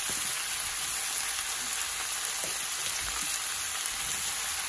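Oil sizzling steadily in a wok of frying garlic, onions and chopped vegetables.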